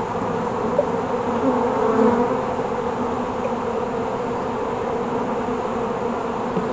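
Honey bees buzzing steadily in a dense swarm over an opened hive during a frame inspection, a continuous hum of many wings.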